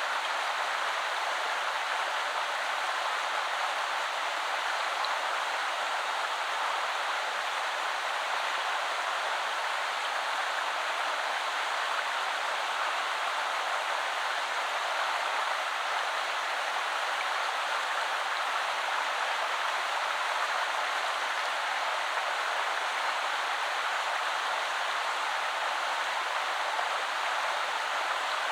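Shallow river flowing over stones: a steady, even rush of water.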